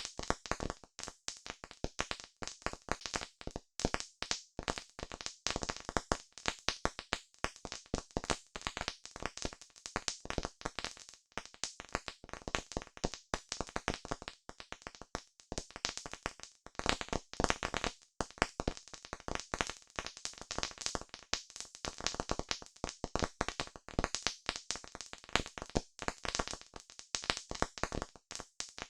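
Campfire crackling: burning wood giving off a dense, irregular stream of sharp pops and snaps, many each second.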